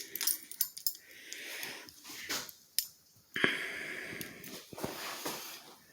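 A person breathing heavily through a face mask close to the microphone: long hissing breaths, with a few small clicks and knocks of handling in between.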